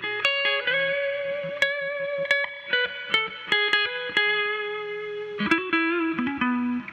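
Electric guitar played through a 1987 Fender Twin Reverb amp fitted with new speakers: a melody of picked single notes, some held for about a second, as a play test of the replaced speakers.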